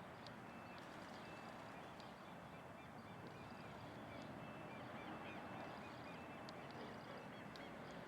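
Faint bird calls, short high notes repeated again and again, over a steady outdoor background hiss.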